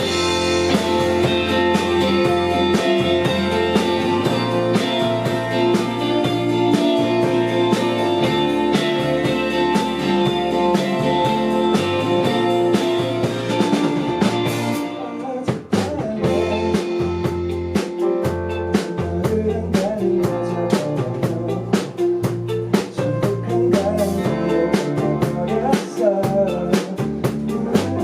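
A band playing a song: drum kit keeping a steady beat under bass and guitar, with a short break about halfway through before the groove picks up again.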